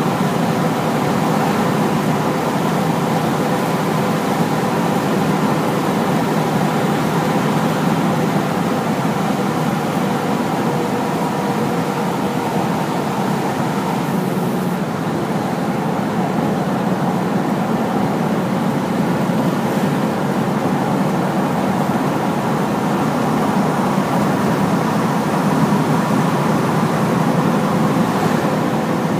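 Hino heavy truck's diesel engine and tyre noise while driving: a steady drone with faint steady tones running through it.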